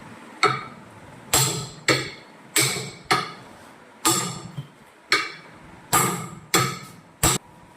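Hammer blows on metal: about a dozen uneven strikes, each with a short ringing clang. They come about one every half second to second.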